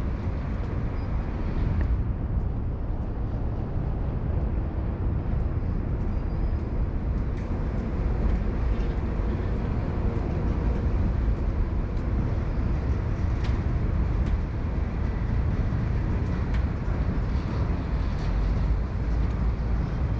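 Steady low rumble of vehicle noise with a few faint clicks, most likely from a train.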